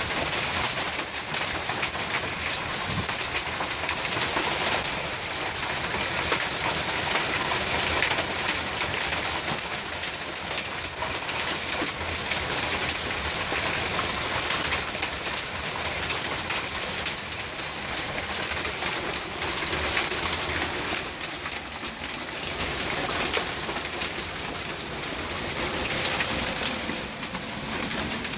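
Hail and rain coming down hard: a dense, steady patter of countless small impacts.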